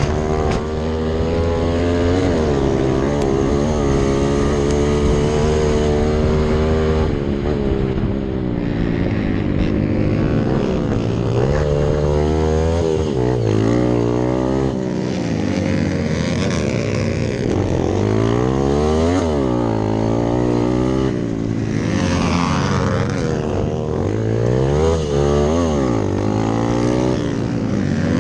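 Hero Impulse dirt bike engine at full race pace, its pitch climbing and dropping again and again as the rider works the throttle and shifts gears. The note runs fairly steady for the first several seconds, then rises and falls many times in quick succession.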